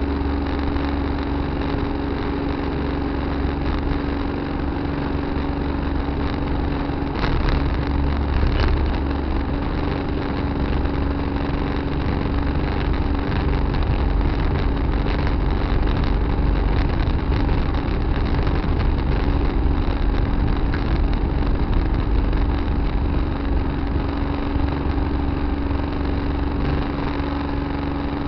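Tractor engine running steadily with a constant hum. Two short knocks or clunks come about seven seconds in and again a second and a half later.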